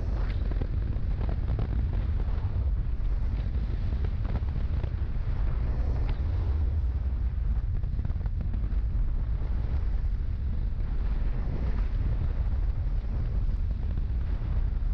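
Wind buffeting a microphone on a moving motorcycle: a steady heavy low rumble with a hiss above it.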